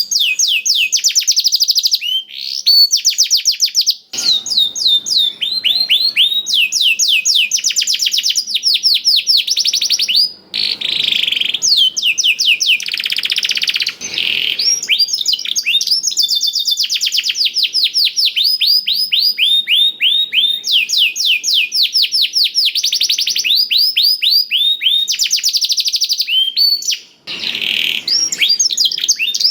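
Domestic canary singing, its song filled with blackthroat (yellow-rumped seedeater) phrases. It sings long, fast trills of repeated high sweeping notes almost without stop, with a few brief breaks.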